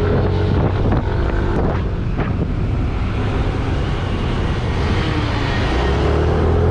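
Motorcycle engine running on the move, with wind rushing over the camera microphone and a few knocks about one to two seconds in.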